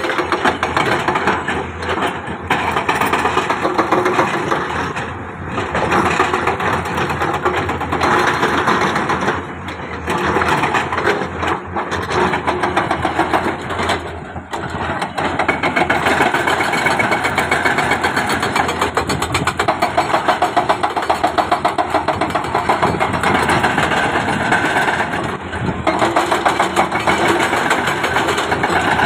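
Heavy diesel engine of construction equipment, such as an excavator, running continuously with a rapid, even pulsing, its level dropping briefly a few times.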